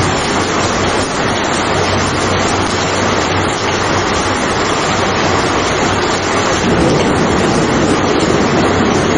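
Steady rain falling hard, a dense even hiss. About two-thirds of the way through, a deeper rumble swells in and the sound grows a little louder.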